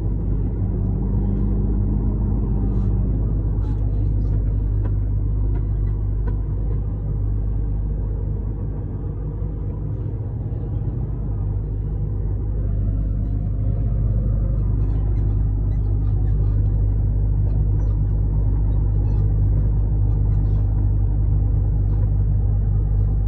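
Truck engine and road noise heard from inside the cab while driving: a steady low rumble that eases off a little about a third of the way in, then builds back up.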